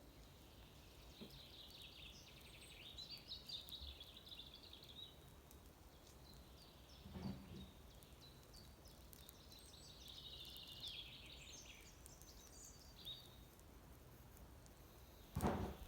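Faint songbird song: two trilled, chirping phrases, a few seconds apart. A dull knock comes in between, and a louder thump near the end.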